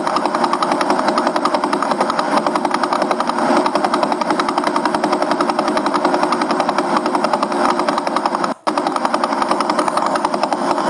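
Vela pulsar's radio signal played as sound: a rapid, even train of hissing pulses, like a fast motor buzz, each pulse one turn of the spinning neutron star. It drops out for an instant about two-thirds of the way through.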